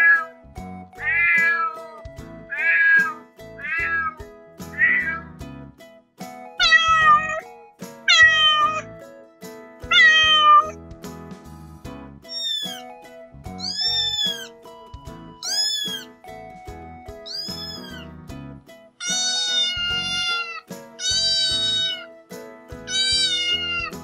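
Kittens meowing over and over, about fifteen meows a second or two apart. The early ones are short and falling, the middle ones high and arched, the last few long and falling. Soft background music plays underneath.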